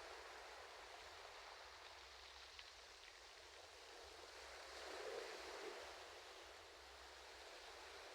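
Faint ocean waves washing on a shore, an even hiss of surf that swells gently about five seconds in.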